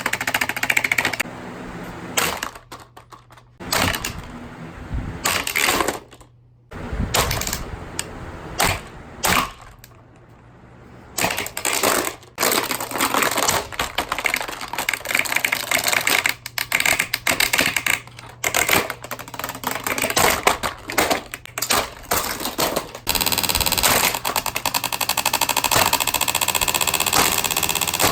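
Hurricane box fan being smashed apart: repeated plastic cracks, knocks and clattering in irregular bursts. Over the last few seconds this gives way to a dense, steady rattle.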